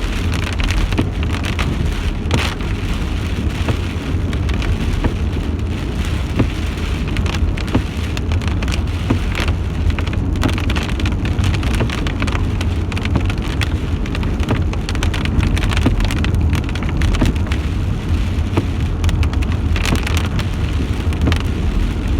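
Steady rain falling, with many close drops ticking sharply, over a constant low rumble.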